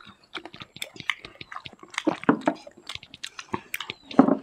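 Close-miked chewing of chicken and rice eaten by hand: a quick, irregular run of wet smacks and clicks, with one louder burst about four seconds in.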